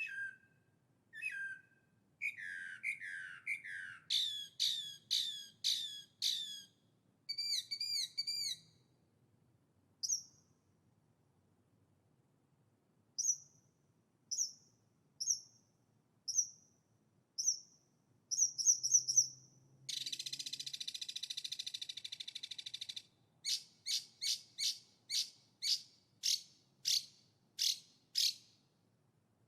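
A songbird singing in separate phrases with pauses: quick falling chirps, single high notes about a second apart, a buzzy trill of about three seconds two-thirds of the way in, then a run of short high notes about two a second.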